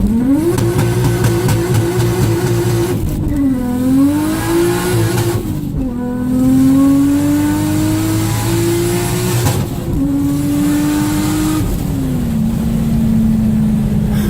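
Modified Nissan Skyline R34 GT-R's twin-turbo RB26 straight-six held on the launch-control limiter with a stuttering, steady note, then launching and pulling hard. The note climbs and drops back at each of several upshifts, then settles to a steady note near the end.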